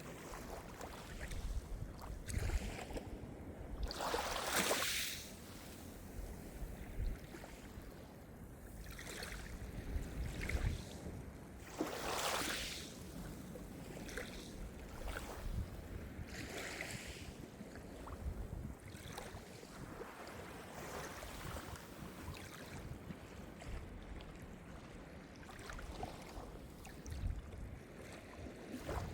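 Calm Mediterranean surf: small waves washing in and draining back, with the biggest washes about four and twelve seconds in and smaller ones between.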